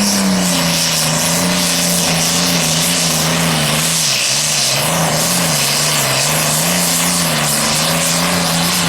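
1959 Farmall 560 super stock tractor's turbocharged diesel engine running hard under load while pulling the sled. It is a steady, loud drone that wavers slightly up and down in pitch, with a hiss high above it.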